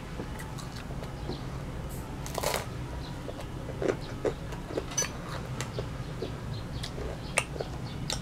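Crunchy baguette pizza being chewed: scattered short crunches and crackles at irregular intervals, over a low steady hum.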